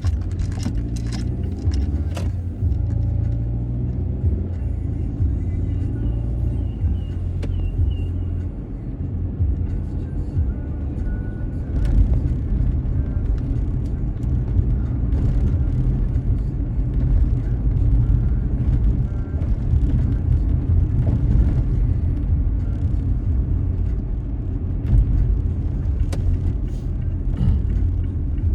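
A car driving on a wet road, heard from inside by a dashcam: a steady low road and engine rumble with scattered sharp clicks.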